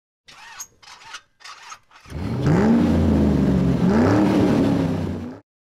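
Car engine: three short blips, then two loud revs, the pitch climbing and falling back each time, cut off suddenly.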